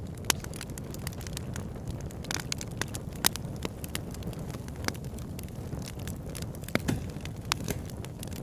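Wood fire burning in a fireplace: a steady low rumble of flames with frequent sharp crackles and pops, a few of them loud.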